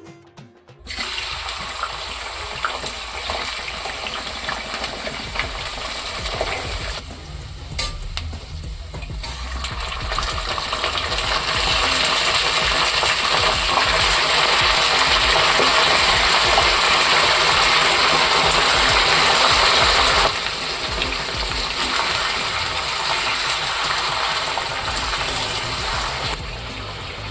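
Tap water running steadily into a sink or bowl, starting about a second in, dipping around seven seconds, loudest through the middle and dropping off near the end.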